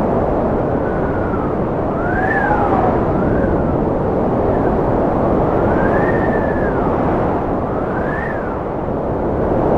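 Cold wind blowing with a steady rush. About five high whistling howls rise and fall over it, each lasting a second or so.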